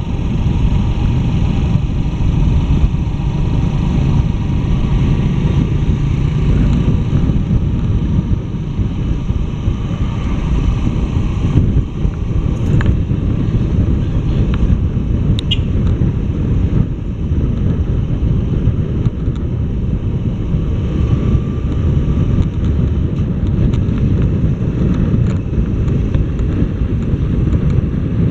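Steady low wind rumble on the microphone from riding a motorcycle, with the bike's engine running underneath.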